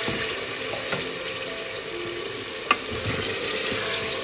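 Peas and potato chunks sizzling in masala in a metal pot while being stirred with a wooden spoon, a steady frying hiss with a single sharp tap a little past halfway.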